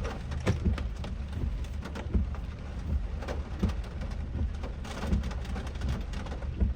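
Rain striking the roof and windshield of a moving car, heard from inside the cabin: scattered sharp drop hits over the car's steady low road rumble.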